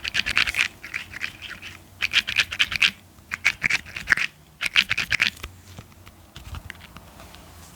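ASMR scratching on a surface: fast, dense strokes in several bursts of about a second each, with short pauses between them, dying down to faint scratches for the last two seconds.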